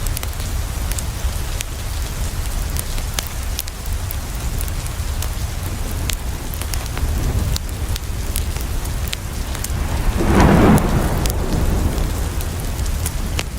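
Steady rain falling on a window, with scattered sharp crackles from a wood fire. About ten seconds in, a roll of thunder swells and fades over a second or so.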